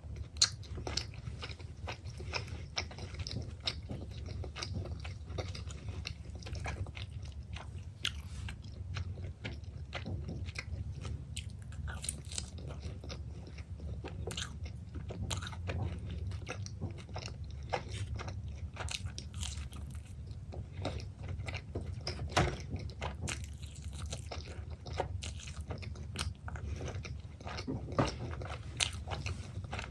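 Close-miked eating of pepperoni pizza: steady chewing with many small wet mouth clicks and occasional crunchy bites, a few noticeably louder.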